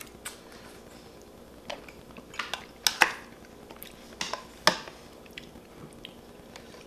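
Close-miked eating: chewing and wet mouth sounds, with a scattering of short sharp clicks of a wooden spoon against a metal rice tin.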